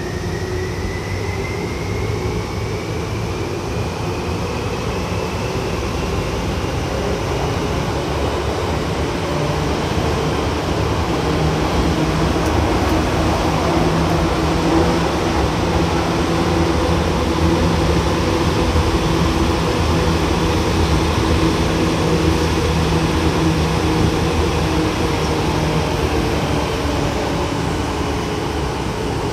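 Tokyu 8500 series electric train running, heard from above the underfloor equipment: the Hitachi traction motors' whine rises in pitch over the first ten seconds or so as the train picks up speed, then holds steady over a continuous running rumble and low hum.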